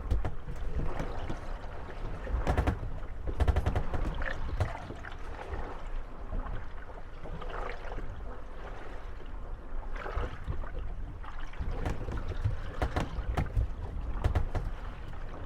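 Moored gondolas rocking on choppy water, their wooden hulls knocking together and creaking at irregular moments over the slosh of waves against them. The knocks come in quick clusters, densest a few seconds in and again near the end.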